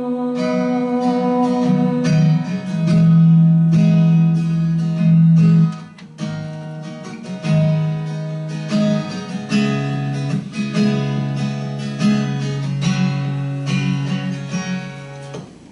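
Instrumental break in a slow song: acoustic guitar strumming chords over long held lower notes that change every couple of seconds.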